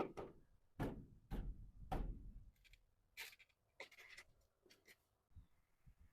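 Four dull knocks about half a second apart, then a few short, scratchy scraping sounds.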